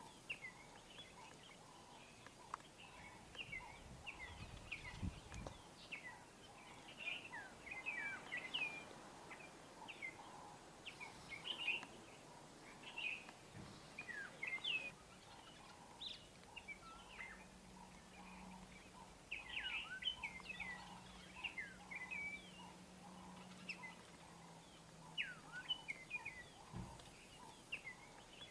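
Small birds chirping and twittering outdoors, many short quick calls, some rising or falling, scattered all through, faint.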